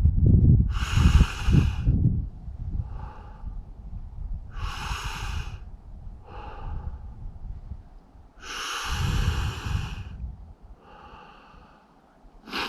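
A man breathing slowly and heavily while sitting in ice-cold water, long loud breaths every couple of seconds as he controls his breathing against the cold shock. A low rumble sits under the first two seconds.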